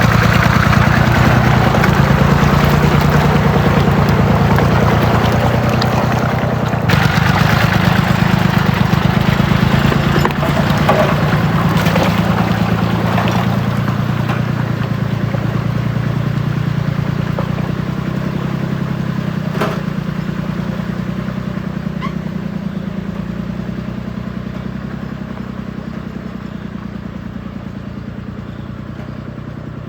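Tractor engine running steadily at idle with a rapid, even firing beat, slowly getting quieter over the second half.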